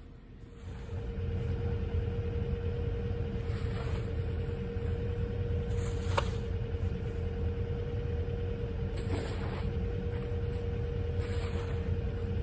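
A car engine starts up about a second in and then idles steadily with a low rumble and a steady hum. A few brief swishes come every two to three seconds over it.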